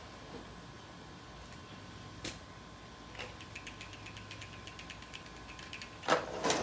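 Faint mechanical clicking: one sharp click about two seconds in, then a run of quick, light ticks, and a louder knock near the end, over a low steady hum.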